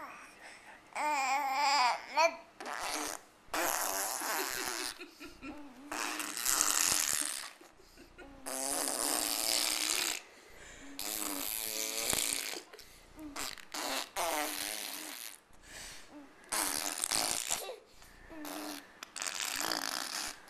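A baby blowing raspberries: a string of spluttering, spitty lip buzzes, each one to two seconds long, with short babbling vocal sounds between some of them.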